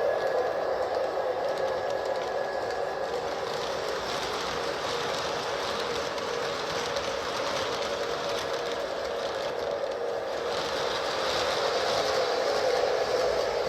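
O scale Lionel model train running on three-rail track: two Lion Chief Dash 8 diesel locomotives pulling a string of tank cars, with a steady whir of motors and rolling wheels. The sound grows louder after about ten seconds.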